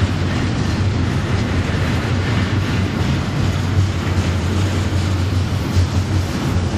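Double-stack container well cars of a freight train rolling past, a steady loud rumble of steel wheels on the rails.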